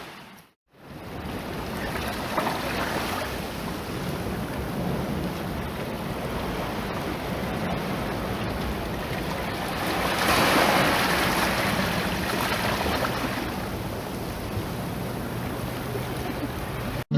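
Sea waves washing onto the shore as a steady rushing noise, with wind on the microphone. It cuts out briefly just after the start, and a wave swells louder about ten seconds in.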